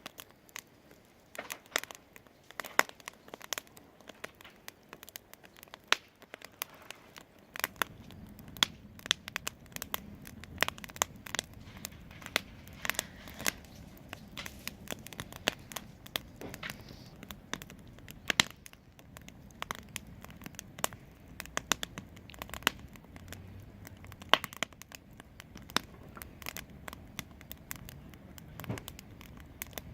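Wood fire crackling in a fireplace: irregular sharp pops and snaps of burning logs, with a low steady rumble setting in after about seven seconds.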